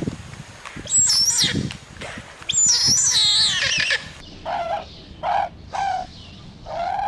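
Animal calls: two high, squawking cries that slide up and down in pitch, followed by a string of short, lower calls, the last one longer.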